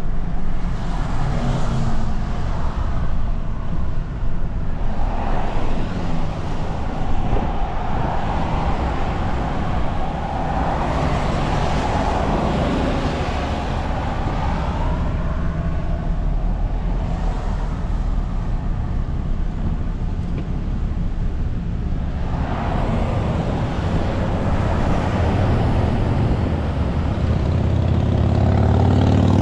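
Dodge pickup truck driving on the road: steady engine rumble with tyre and wind noise. Near the end the engine note rises as the truck picks up speed.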